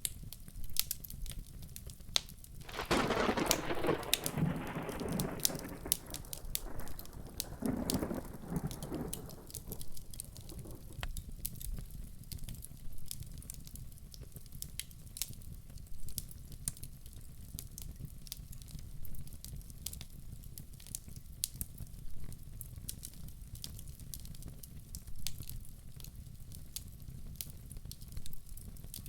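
Wood fire crackling, with sharp pops throughout, over steady rain. Thunder rolls in about three seconds in, swells twice and dies away after about eight seconds.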